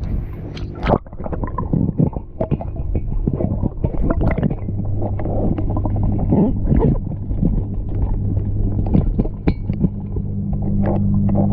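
Inflatable hot tub's electric pump humming steadily, with water gurgling and irregular clicks and knocks from handling the tub. The hum gets louder about four seconds in.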